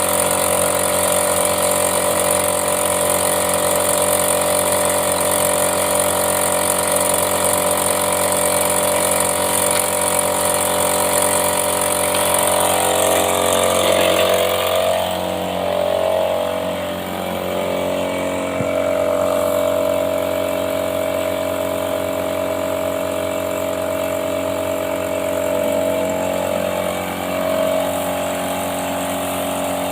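A motor-driven machine running steadily with a many-toned hum. A high hiss over it stops about halfway through, and the hum shifts slightly in pitch at the same point.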